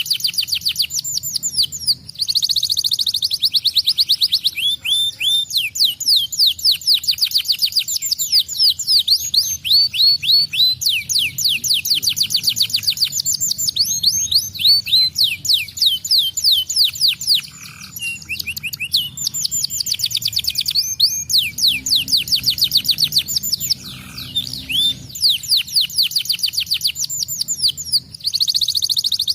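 Domestic canary singing continuously in long, rapid trilled phrases of repeated high falling notes, with brief pauses between phrases.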